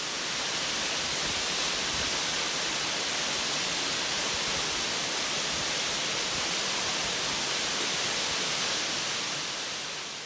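Steady rushing roar of a tall waterfall, an even wash of falling water with no rhythm, fading in at the start and fading out near the end.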